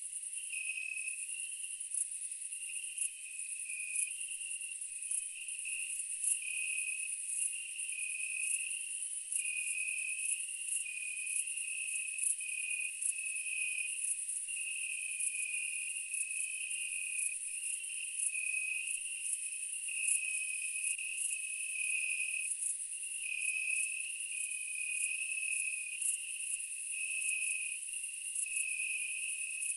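Night chorus of crickets and other insects: a steady high-pitched trill over a lower, pulsing chirp that alternates between two close pitches.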